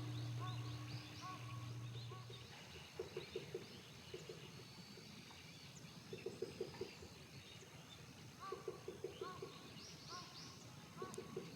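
Small birds chirping faintly and repeatedly in the background. A low hum fades out about two seconds in. Five short groups of rapid clicking, each about five clicks fast, are the loudest sounds.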